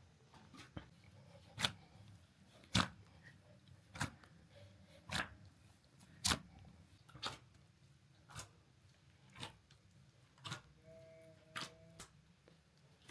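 A series of sharp knocks or crunches, evenly spaced about once a second, with a brief faint tone near the end.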